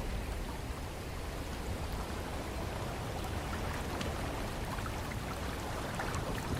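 Ocean water washing steadily, with a deep rumble underneath and scattered small splashing ticks throughout.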